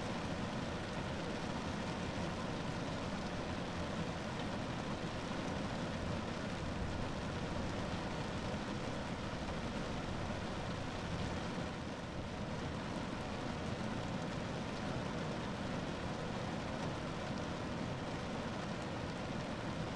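Rain falling steadily on a car roof, a dense, even noise with no single drops standing out and no letup.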